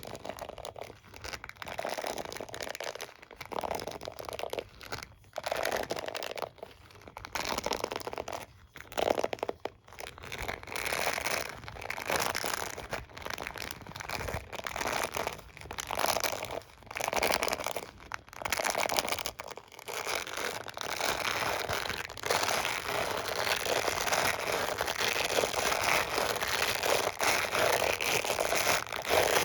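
Close-up scratching and rubbing on a hairbrush and comb, with crinkly, crunchy textures. The strokes come in separate bursts for the first two-thirds, then run together into steady brushing.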